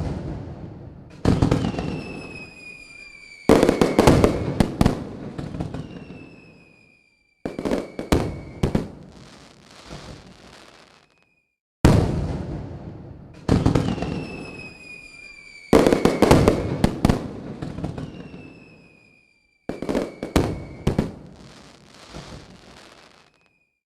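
Aerial fireworks: about ten loud bursts, each trailing off in crackling, several carrying a high whistle that slides slightly down in pitch.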